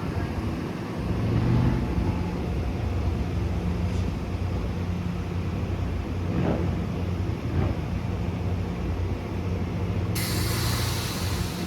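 Diesel commuter train running with a steady low rumble and hum. About ten seconds in, a sudden hiss of escaping air starts and lasts a second or two, typical of an air brake release.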